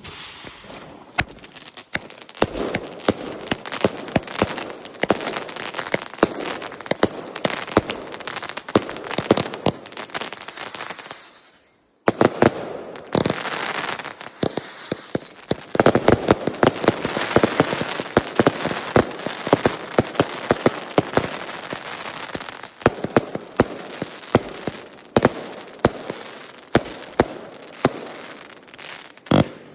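Iskra Szakal firework going off: a long run of rapid crackling and sharp pops over a hissing spray. It breaks off for a moment about twelve seconds in, then resumes, with one louder bang near the end.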